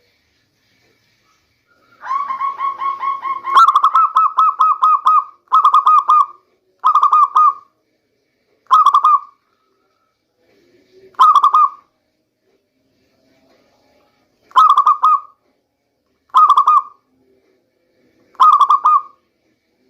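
Local zebra dove (perkutut lokal) cooing: after about two seconds of quiet, a long rolling run of rapid coo notes, then short cooing phrases repeated every two to three seconds.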